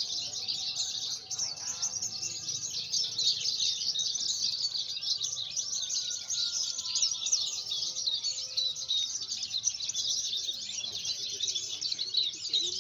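Javan bush lark (branjangan) singing: a rapid, unbroken stream of high chirps and trills.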